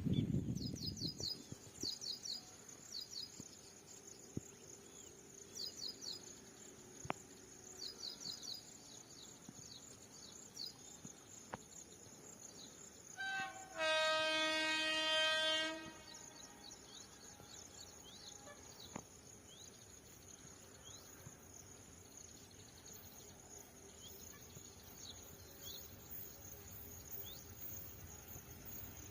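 Quiet trackside ambience with small birds chirping now and then; about thirteen and a half seconds in, a locomotive horn sounds once, a steady tone held for about two and a half seconds.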